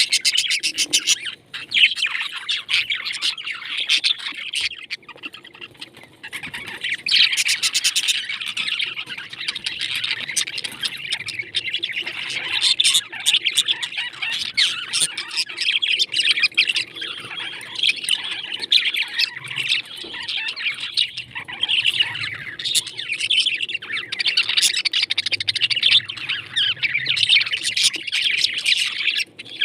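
Pet parrots chirping and chattering without a break, many short high calls overlapping, with a thinner lull about four to seven seconds in.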